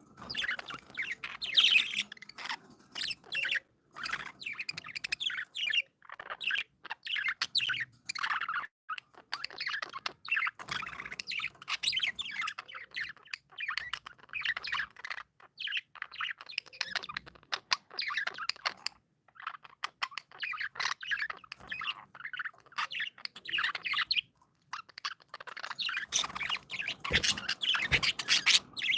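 Several budgerigars chattering and warbling together: rapid chirps and squawks in quick, busy runs broken by brief pauses.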